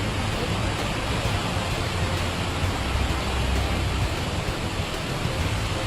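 Heavy rainstorm: a steady rushing hiss of downpour, with a low rumble underneath.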